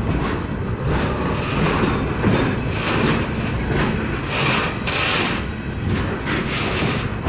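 Loaded flatcars of a freight train rolling past at close range: a steady rumble of steel wheels on the rails, with occasional clanks.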